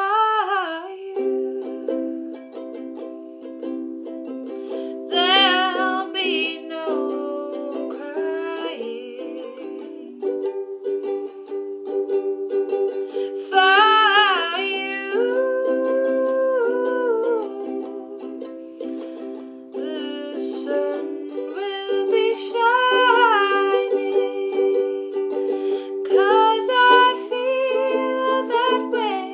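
A ukulele playing sustained chords, with a solo voice singing melody lines over it in several phrases.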